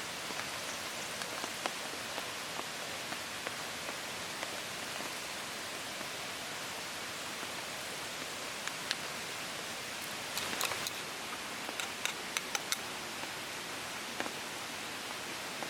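Steady rain hiss, with scattered sharp ticks, most of them bunched about ten to thirteen seconds in.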